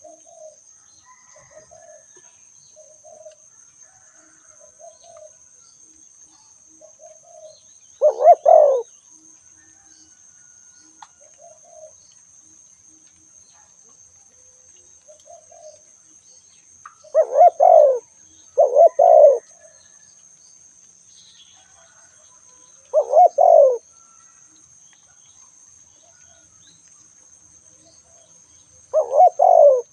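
Spotted doves cooing: five loud coo phrases, two of them close together midway, over fainter short coos repeating about once a second in the first half.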